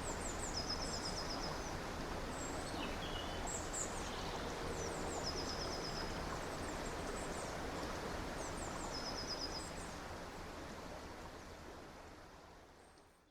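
Running water of a stream or river with songbirds calling over it: a rapid high trill repeated three times, along with scattered higher chirps. The whole sound fades out near the end.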